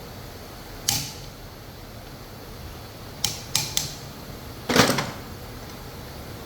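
Parts and hand tools being handled during engine assembly: a sharp click about a second in, three quick clicks a little past the middle, then a louder clatter, over a steady workshop hum.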